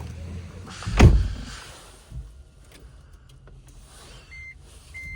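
A heavy thump about a second in, then a few light clicks, and short high electronic beeps near the end.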